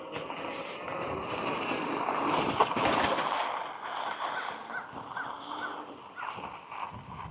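Fat tire bike rolling over an off-road trail, a rough rolling noise that is loudest about two to three seconds in. In the second half a bird gives a quick series of short, repeated calls.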